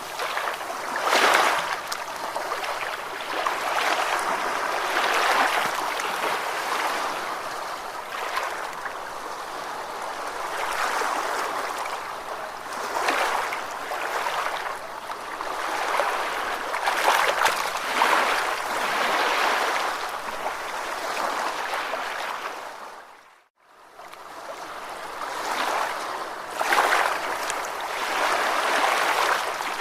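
Ocean surf: waves washing in and breaking in irregular swells every few seconds. About three-quarters of the way through, the sound briefly drops out almost to silence, then swells back.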